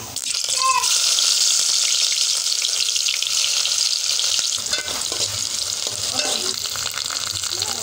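Chopped onion sizzling in hot cooking oil in a pot, starting suddenly about half a second in as it hits the oil. The sizzle is loud and steady while a spatula stirs it.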